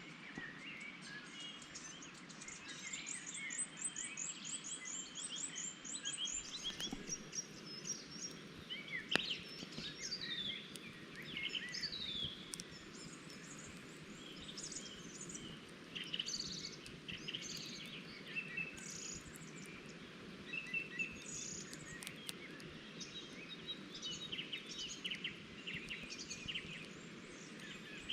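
Several wild birds chirping and singing, with many short high calls and a rapid run of chirps a few seconds in, over a steady low rushing background.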